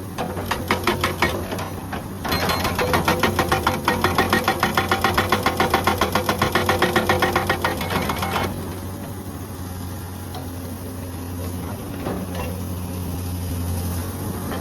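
Hydraulic breaker on a Komatsu excavator hammering rock in rapid blows, about six or seven a second: a short run, then a longer steady run that stops about eight seconds in, leaving the excavator's diesel engine running with a steady low hum.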